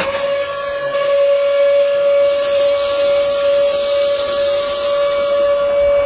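A steady, high whistle-like tone held unbroken, with a hiss joining in from about two seconds in until near the end.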